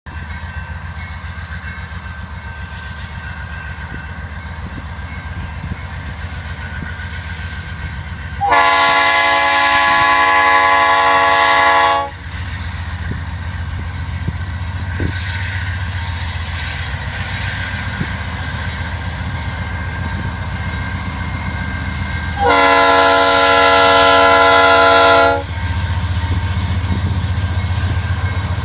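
Norfolk Southern diesel locomotives working hard under load, a steady low rumble, with two long blasts of the locomotive's chord air horn, the first about 8 seconds in and the second about 22 seconds in, each lasting around three seconds.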